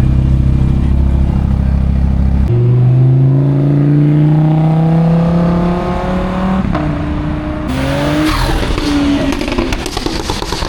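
A car engine accelerating hard, its note climbing steadily through a gear for about four seconds, then dropping and climbing again as it shifts up. Near the end a loud rushing hiss takes over.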